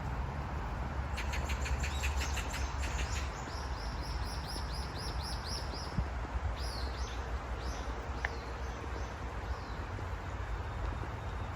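A songbird singing: a fast trill, then a quick run of repeated high down-slurred notes, then a few slower falling notes. A steady low rumble runs underneath.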